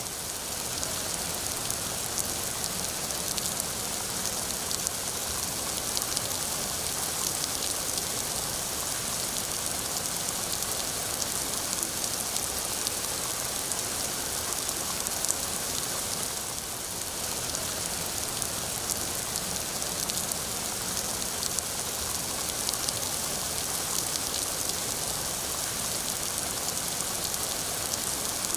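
Steady rain falling on a surface, a dense hiss of many small drop impacts.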